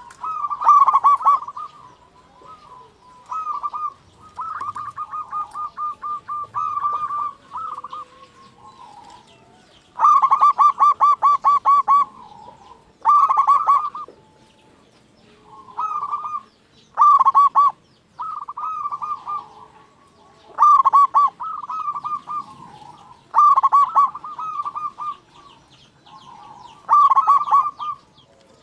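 Zebra dove (perkutut) singing: a loud, rapidly pulsing trilled coo, repeated as phrases one to two seconds long every few seconds.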